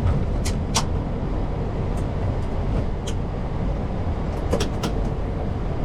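Steady low rumble inside the Airbus A340-600's flight deck as the airliner rolls along the ground after landing, with a few short sharp clicks scattered through: two near the start, two more in the middle, and a quick cluster about four and a half seconds in.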